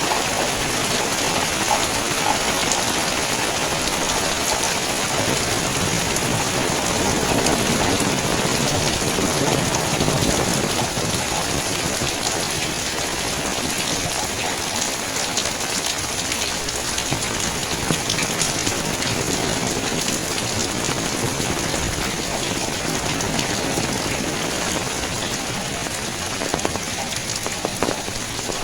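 Steady rain falling, an even hiss made of many fine drop ticks.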